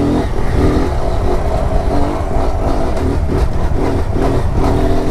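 Kawasaki Z125's small single-cylinder engine revving hard as the mini bike accelerates, its pitch climbing and dropping several times through gear changes. Wind rumble on the microphone sits underneath.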